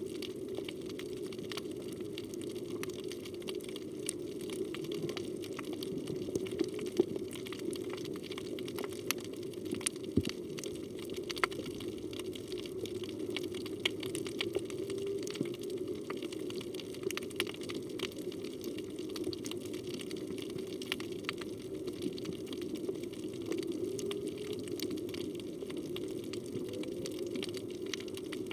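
Underwater ambience recorded on a phone: a steady low rushing of moving water with many scattered sharp clicks and crackles.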